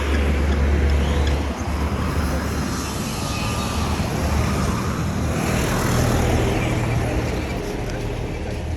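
Road traffic passing close by, with a motor vehicle's engine rumbling loudly through most of the stretch and the noise of tyres and street around it.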